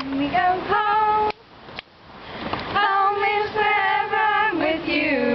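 Female voice singing long held notes with vibrato, pausing briefly about a second in before carrying on.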